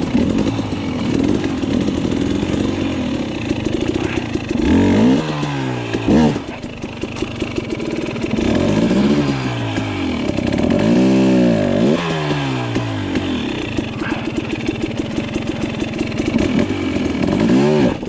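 KTM dirt bike engine revving up and down in repeated bursts as the bike is worked up a rock climb, the throttle blipped several times.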